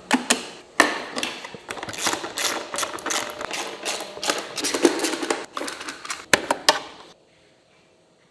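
Quick, irregular clicks and knocks of tools working on metal parts, stopping suddenly about seven seconds in.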